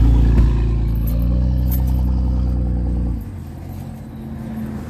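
A motor vehicle's engine running close by, a steady low note that drops away about three seconds in.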